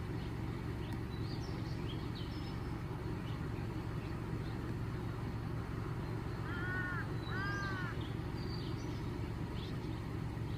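Outdoor background with a steady low rumble, two short arched cawing calls from a bird about six and a half and seven and a half seconds in, and scattered faint high chirps.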